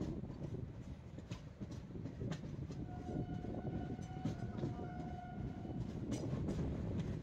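Passenger train running with a steady rumble and scattered wheel clacks, heard from on board. A train horn sounds for about three seconds midway.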